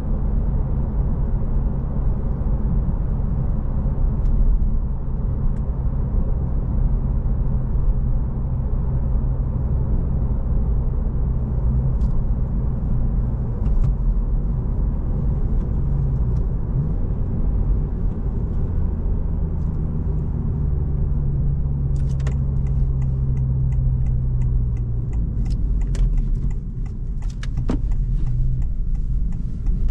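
Stock 2025 Honda Civic Si's 1.5-litre turbocharged four-cylinder engine and road noise under way, a steady low drone whose engine note shifts in pitch a little past halfway as the revs change. Near the end, a run of light clicks.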